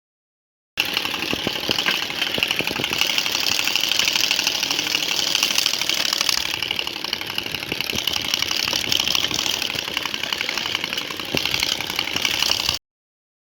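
Motorcycle engine running through an aftermarket exhaust, with a fast, even run of firing pulses. It cuts in about a second in and cuts off sharply near the end.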